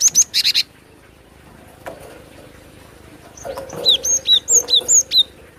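Cinereous tit (gelatik batu) singing: a quick run of sharp chirps at the very start, then, after a single click, a rapid series of about eight downward-slurred whistles alternating between a higher and a lower note.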